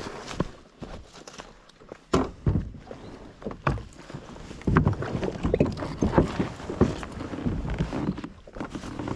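A kayak being handled and readied: irregular knocks, bumps and scrapes against its hull, the loudest thumps coming in a cluster about halfway through.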